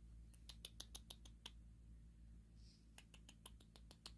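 Quiet, sharp light clicks in two quick runs, each of about seven or eight clicks, with a pause of about a second and a half between them.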